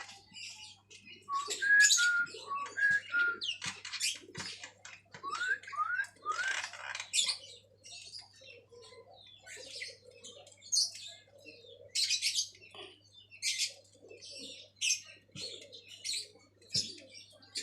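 Javan myna (jalak kebo) calling. It gives clear whistled notes and quick rising slurs in the first few seconds, then a long run of short, harsh chattering calls. This is a caged bird singing readily, which the keeper credits to mirror therapy.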